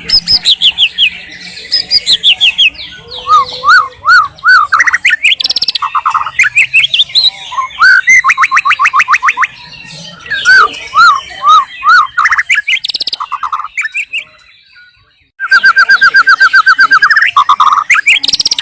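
White-rumped shama (murai batu) singing a loud, varied song of rapid repeated whistled notes, up-and-down slurs and fast runs, broken by a pause of about a second and a half roughly three-quarters of the way through.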